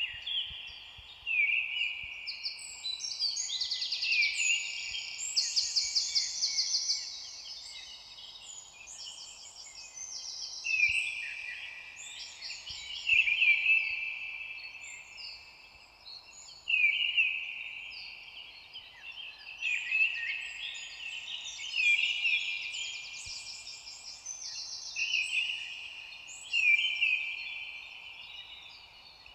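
Several songbirds singing at once, with overlapping whistled phrases and rapid trills repeating every second or two.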